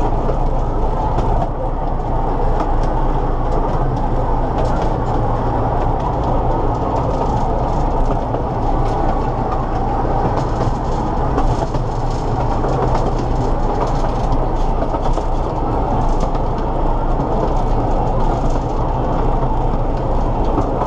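Open-sided carriages of a small park train running along the track: a steady, loud rumble and rattle of wheels on rails that does not let up.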